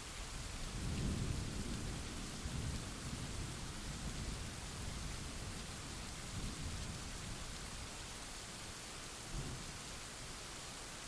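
Steady heavy rain hiss with a roll of thunder: a low rumble that swells about a second in and dies away over several seconds, with a couple of smaller low rumbles later.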